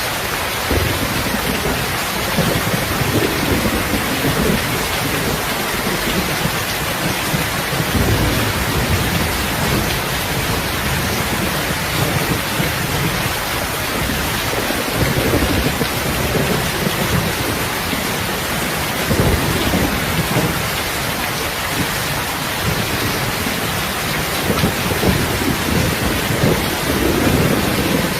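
Steady rain hissing, with a low rumble swelling up under it several times.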